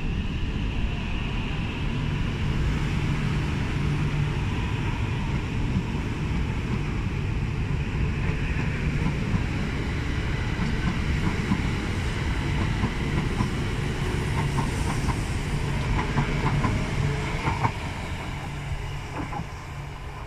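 E6-series Akita Shinkansen Komachi train pulling out and running past: a steady rumble of wheels and motors on the rails, with some clicking over the track in the later part. It fades over the last few seconds as the train moves away.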